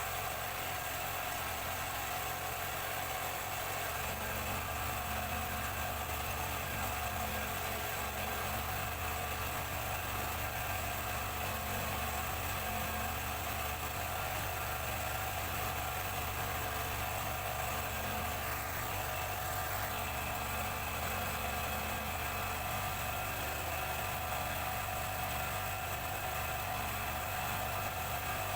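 Motorcycle engine running steadily, with its rear wheel spinning a bladeless ceiling fan motor so that it works as a generator.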